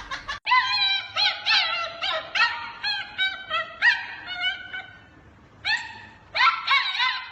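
A dog yipping and whining in quick, arched cries, about three a second, breaking off for about a second midway and then starting again.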